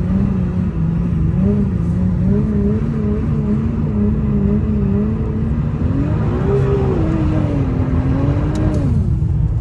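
Nissan R35 GT-R's twin-turbo V6 held at steady high revs during a donut on ice, the pitch wavering slightly. About two-thirds of the way through it revs up and then drops back.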